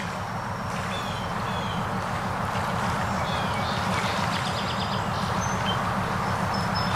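Scattered short, high bird calls over a steady low rumble and a faint outdoor hiss.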